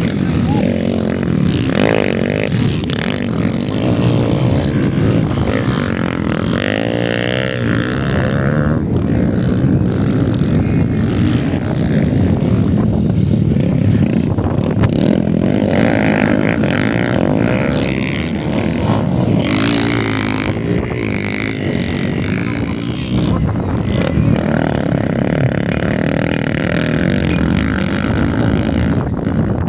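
Motocross dirt bikes racing, their engines revving up and down as they accelerate and back off.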